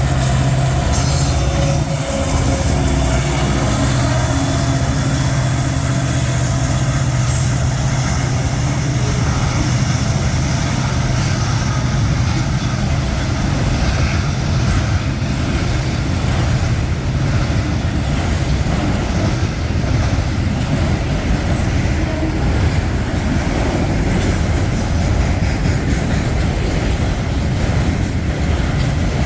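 Freight train passing close by. A diesel locomotive's engine drone fades in the first couple of seconds, then the rail cars keep rolling by with a steady rumble and rattle of wheels on the rails.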